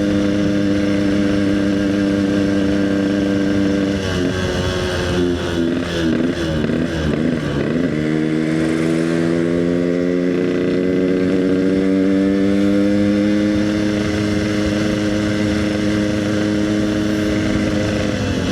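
Yamaha RX-King's single-cylinder two-stroke engine running through an EnzyProject aftermarket exhaust while riding. It holds a steady pitch, then dips and wavers for a few seconds as the throttle is eased about four seconds in. From there it climbs slowly as the bike picks up speed, and the pitch drops again near the end.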